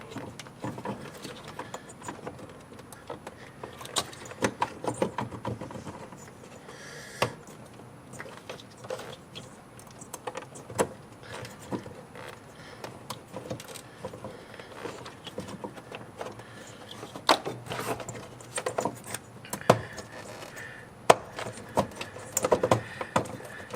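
Irregular clicks, knocks and rattles of hands working a stubborn LED headlight bulb and its connector out of a car's headlight housing.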